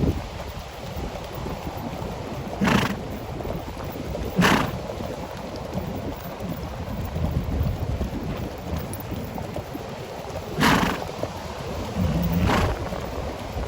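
Wind rumbling on the microphone, broken by four short, loud noisy blasts that come in two pairs, each pair about two seconds apart.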